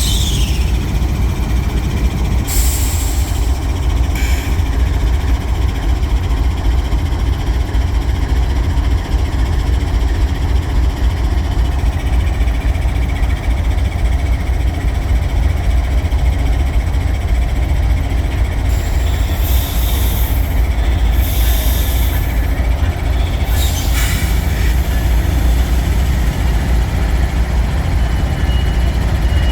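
Freight train rolling past, a steady low rumble of cars on the rails. A few brief high-pitched noises come over it, about two seconds in and again around twenty seconds in.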